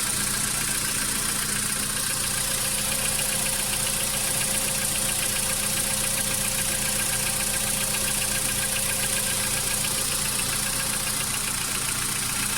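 Volkswagen Jetta engine idling steadily with a fine, rapid, even ticking, just after starting following an engine wash. It is running without fault warnings.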